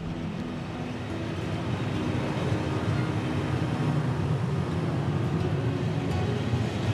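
Passenger train coaches rolling slowly along a station platform: a steady rumble of wheels on the rails that grows gradually louder.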